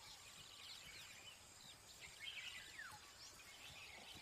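Faint wild bird calls: scattered short chirps, with one longer whistle falling in pitch about halfway through, over quiet grassland ambience.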